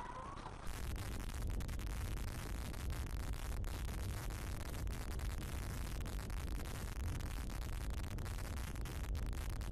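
Steady rushing wind noise buffeting the microphone, with a deep low rumble, setting in fully about a second in.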